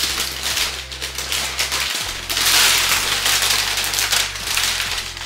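Gift wrapping paper being torn and crinkled as a present is unwrapped, loudest from about two to three and a half seconds in.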